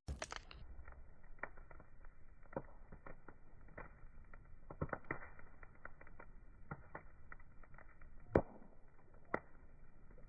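Wood fire crackling: scattered irregular pops and snaps over a soft hiss, with one loud pop about eight seconds in and another a second later.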